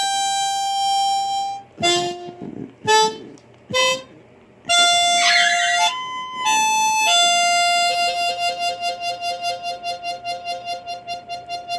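Blues harmonica played solo: a string of short held and bent notes, then a long note held with a pulsing hand vibrato of about four beats a second.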